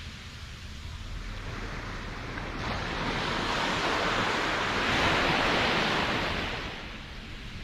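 Ocean surf: one wave surges in, rising to a peak a little past halfway and ebbing away near the end, over a steady low rumble of the sea.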